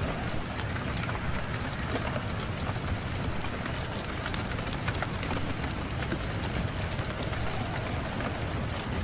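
Wood fire in a fireplace crackling, with irregular sharp pops over a steady low rush of wind.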